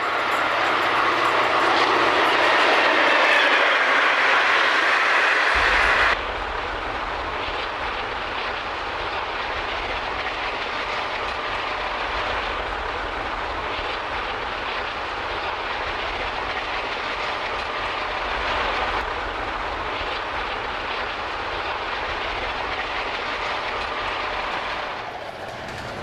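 Diesel locomotive hauling a train, with steady engine and rail noise. About six seconds in the sound changes abruptly to a quieter, steadier train rumble.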